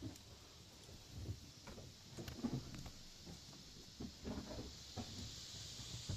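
Footsteps through snow at an uneven pace, irregular soft thuds about once a second over a steady high hiss.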